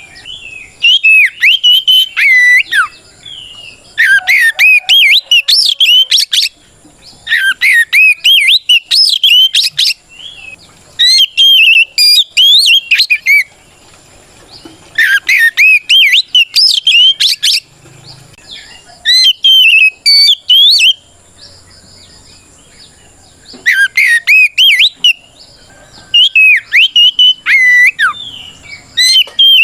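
Oriental magpie-robin (kacer) singing loudly in full 'ngeplong' song: phrases of rapid, varied whistled notes sweeping up and down, each about two seconds long, repeated after short pauses. A faint steady high tone runs underneath.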